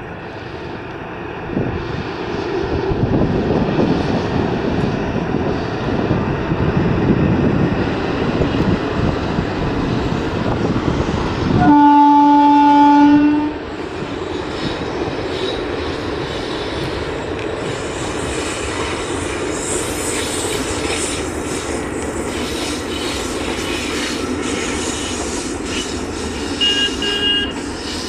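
Passenger train hauled by three locomotives, two WAP-4 electrics and a WDG-4D diesel, running along the track with a steady rumble and wheel clatter. About twelve seconds in, a locomotive horn sounds one loud blast of under two seconds.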